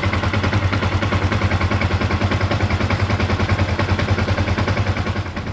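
Yamaha Sniper 150's single-cylinder fuel-injected four-stroke engine idling steadily with a rapid, even beat. It is running fine on a newly fitted fuel filter.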